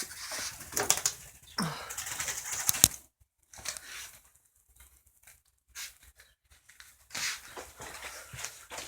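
A bird trapped in a garage fluttering its wings and scrabbling, in irregular bursts with a sharp knock about three seconds in.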